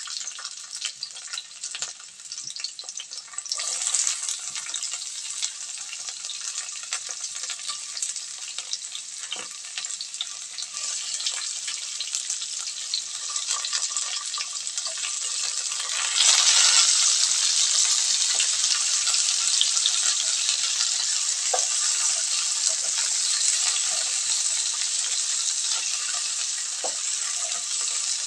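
Garlic, onion, tomato and ginger sizzling in oil in a nonstick frying pan: a steady frying hiss that grows louder about halfway through.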